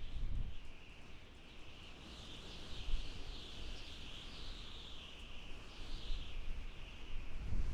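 Desert wind howling, with a high whistle that wavers up and down and low gusts rumbling in now and then, strongest near the start, about three seconds in, and at the end.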